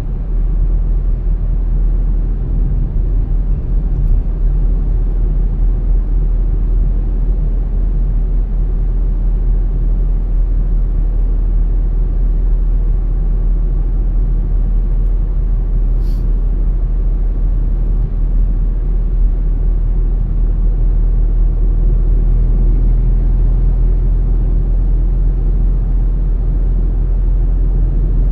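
Car driving along a road: a steady low rumble of engine and tyre noise. There is a single short click about sixteen seconds in.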